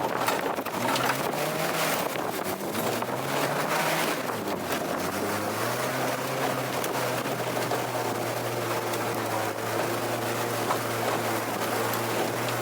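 1500 MG Midget's 1493 cc four-cylinder engine revving under load, its pitch rising and falling for the first few seconds, then held steady at high revs from about six seconds in, over a constant rushing noise.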